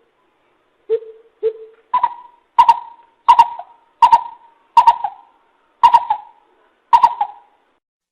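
Coucal (bìm bịp) calling: a series of deep hooting notes, two low ones about a second in, then seven higher-pitched ones spaced roughly every half to one second, each trailing off.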